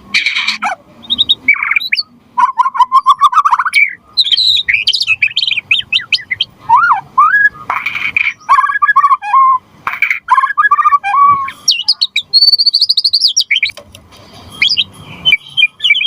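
White-rumped shama singing energetically: a run of varied phrases of clear whistles, fast trills and quick sweeping notes, with a few harsh rasping notes mixed in. The phrases are separated by short pauses.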